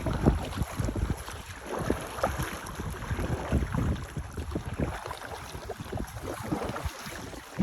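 Wind buffeting the microphone in irregular gusts, with choppy water splashing and lapping around an inflatable rowboat as it is rowed.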